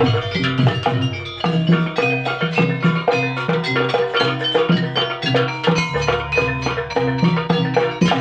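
Live instrumental music: tuned mallet percussion and drums playing a fast, evenly repeating pattern of struck notes.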